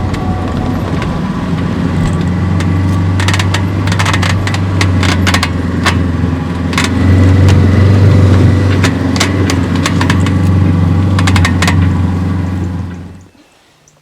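Motor vehicle engine running steadily, with scattered clicks and rattles over it, then switched off about a second before the end, the sound dropping away abruptly.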